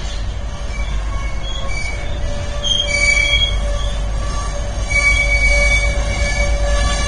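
BNSF train rolling past with its wheels squealing against the rails: a run of shrill squeals, some brief and some held for a second or more, over a steady low rumble.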